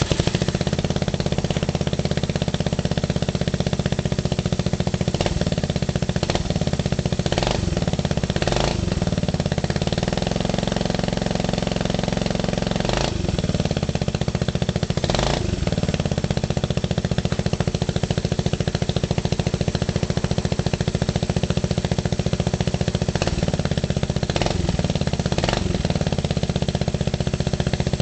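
Yamaha Grand Majesty 250 scooter's single-cylinder four-stroke engine idling steadily just after starting, with a few brief sharp sounds breaking through the idle.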